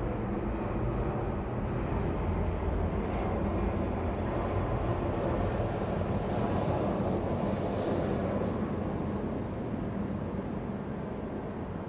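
Steady low rumble of city ambience, swelling a few seconds in and easing off near the end, with a faint high whine around the middle.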